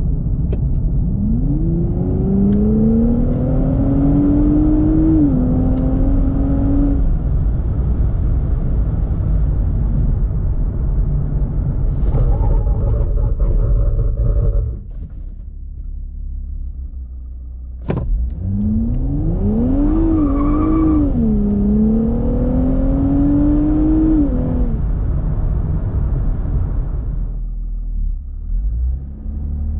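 Nissan Z's twin-turbo V6 accelerating hard, twice. Each time the engine note climbs, drops sharply at a gear change, then climbs again, over steady heavy road rumble.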